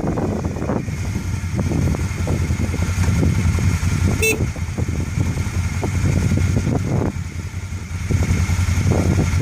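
Quad bike engine running with a steady, fast low chug that swells and eases a little in level. A single short high-pitched beep about four seconds in.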